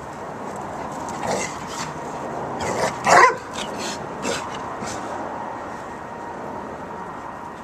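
A dog barking a handful of times, the loudest bark about three seconds in, over steady background noise.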